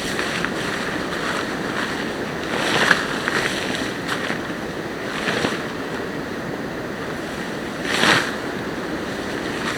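Steady heavy rain falling in woodland, a continuous hiss that twice swells louder for a moment.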